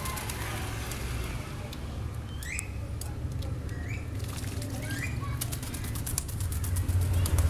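A pet lory fluttering and shaking its wings while bathing, heard as a rapid clicking rattle that grows denser in the second half. A few short rising chirps come in the middle.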